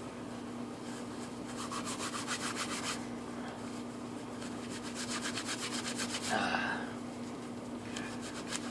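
Dry inner-bark fibers being rubbed and wrung briskly between the hands to break them down into fine tinder, in two bouts of rapid scratchy strokes. A washing machine hums steadily in the background.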